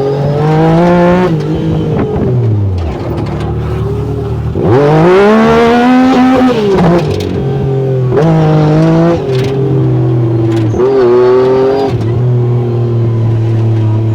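Yamaha YXZ1000R side-by-side's three-cylinder engine revving up and dropping back several times under throttle while being driven, with the biggest climb in pitch about five seconds in.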